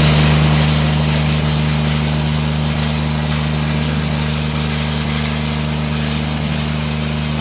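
Tractor engine running steadily at constant speed.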